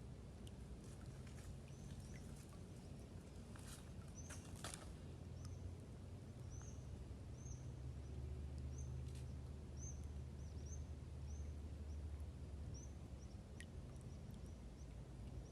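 A small bird calling a series of short, high chirps about once or twice a second, starting about four seconds in, over a low steady rumble of wind. A few sharp clicks come near the start of the chirping.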